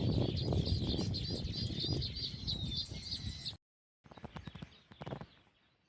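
Small birds chirping in a quick, continuous run of short high notes over a low rumble. The sound breaks off abruptly about three and a half seconds in, and a few faint clicks follow.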